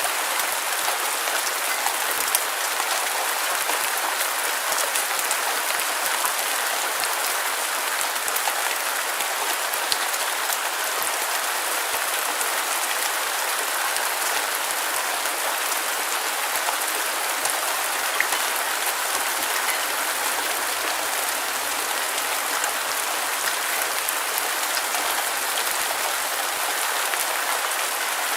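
Steady rain falling, a dense even hiss of drops with many small pattering ticks, used as white noise for sleep.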